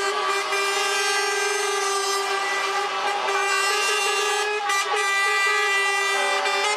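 Truck air horns sounding together, several steady held tones overlapping with no break; near the end one horn drops out and a lower-pitched horn comes in.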